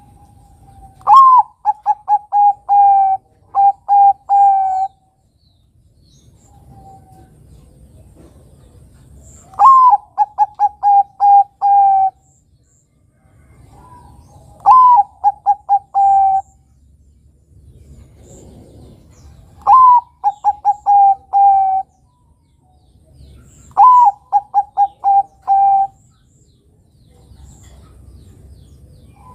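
Zebra dove (perkutut, Bangkok line) singing five cooing phrases. Each opens with a short rising note and runs on into a quick string of about seven short repeated coos, with pauses of a few seconds between phrases.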